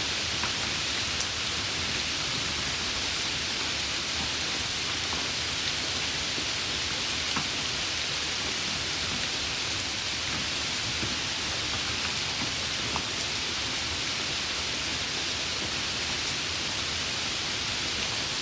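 Steady heavy rain falling, a constant even hiss with a few scattered sharper drop ticks.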